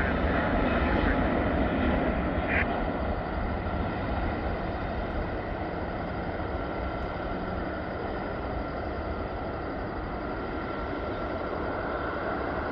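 Airplane noise: a steady rushing drone with a faint high whine, slowly fading over the first several seconds and then holding steady.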